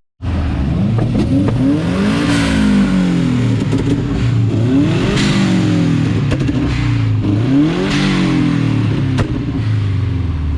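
Subaru Impreza STI's turbocharged boxer four-cylinder engine being revved, three rev blips that climb and drop back to a steady idle.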